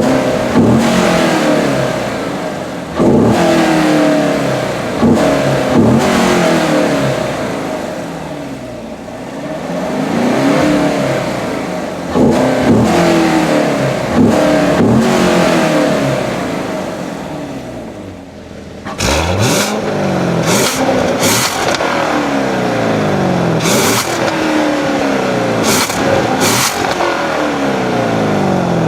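2016 Chevrolet Corvette Stingray Z51's 6.2-litre LT1 V8 revved again and again, pitch climbing and falling back, with the dual-mode exhaust in stealth mode, its bypass valves closed for the quietest setting. About two-thirds of the way through the sound cuts to a steadier run, the engine pitch still rising and falling.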